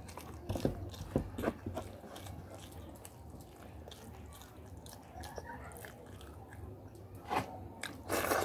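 Close-miked eating sounds: wet chewing and smacking of spicy fried rice and chicken curry eaten by hand, with a cluster of sharp smacks in the first second and a half, quieter chewing after, and louder bursts near the end as a handful of rice goes into the mouth.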